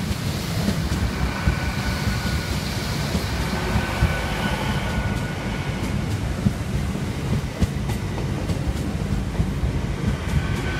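LNER Azuma high-speed train passing along the platform: a steady rumble of the coaches rolling by, with a faint steady whistle and scattered wheel clicks over the rails, mostly in the second half.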